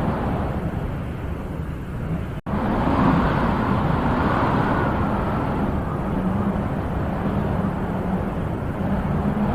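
Wind blowing steadily with a deep rushing rumble, swelling in a gust about three seconds in. The sound drops out for an instant just before the gust.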